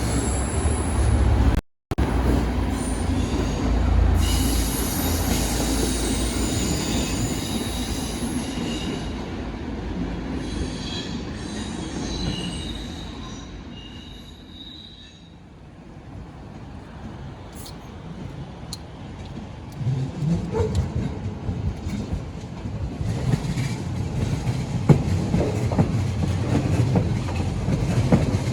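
DSB IC3 (Litra MF) diesel multiple units moving through the station with high wheel squeal, fading away by the middle. Then a DSB S-train (Litra SA) electric unit approaches, rumbling, its wheels knocking over the rail joints.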